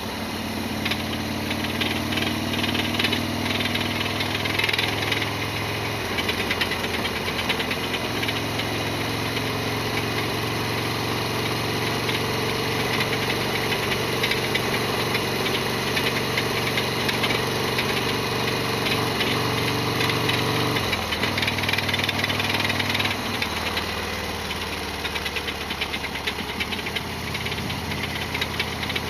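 Harley-Davidson XL1200R Sportster's air-cooled 1200 cc V-twin running on the move, its pitch stepping up and down several times, with a loud clattering rattle that the owner counts as an abnormal noise.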